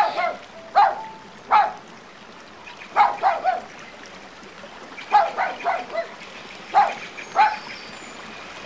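A dog barking repeatedly: short, sharp barks, some single and some in quick runs of two or three, with uneven pauses between them.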